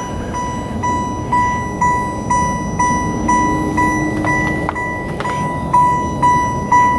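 1994 Chevrolet Impala SS's dashboard warning chime sounding over and over, a single pitched ding repeating about twice a second.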